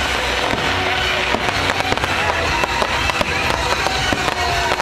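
A fireworks display: many shells and comets going off in quick succession with sharp bangs and crackling, over a music soundtrack.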